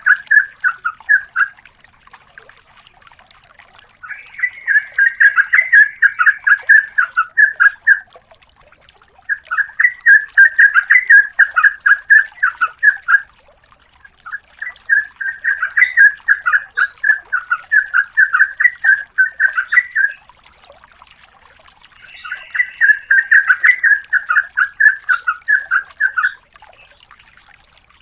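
Yellow-vented bulbul (trucukan) singing in bouts of rapid, run-together notes, each bout lasting a few seconds, about five bouts with short pauses between.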